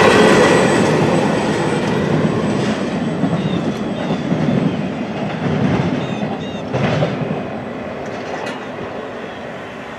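Freight train's intermodal container cars rolling past, wheels clicking over the rail joints, the sound fading steadily as the train moves away. A brief clank about seven seconds in.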